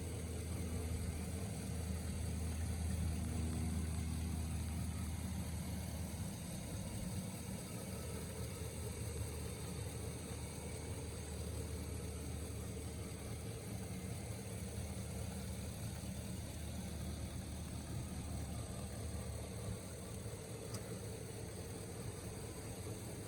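2002 Chevrolet Silverado 1500 pickup's engine idling steadily, a little stronger in the first few seconds.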